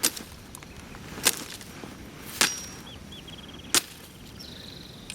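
Four sharp cracks of something being struck, evenly spaced about a second and a quarter apart. Short high chirps are heard between the last two cracks and after the last.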